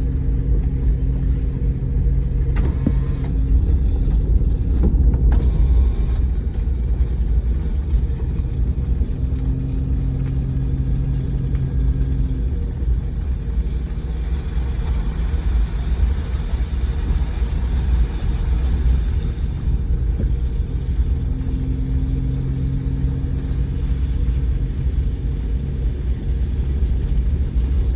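Steady low rumble of a running engine, with a low hum that fades in and out for a few seconds at a time.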